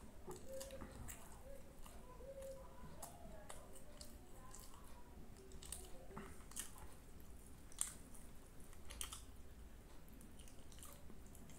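Close-up chewing and eating sounds: soft wet mouth clicks and smacks while food is chewed, with one sharper click about two thirds of the way in.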